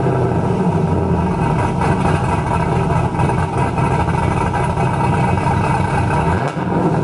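Cammed LS1 V8 of a 2000 Pontiac Trans Am WS6, fitted with a Brian Tooley Stage 4 camshaft, long-tube headers and a Borla cat-back exhaust, running steadily just after a cold start.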